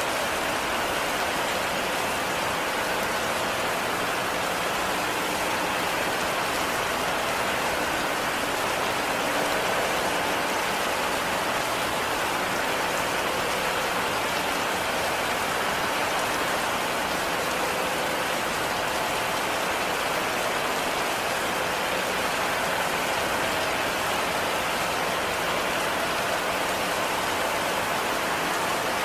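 Heavy rain falling steadily, an even hiss that holds without a break.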